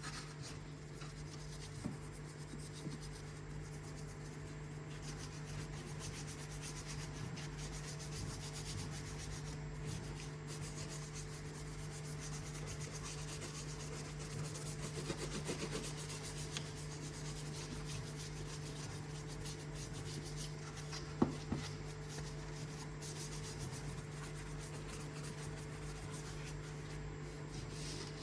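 Continuous scrubbing and rubbing on grimy engine-bay surfaces during detailing, over a steady low hum. A couple of sharp knocks come a little past two-thirds of the way through.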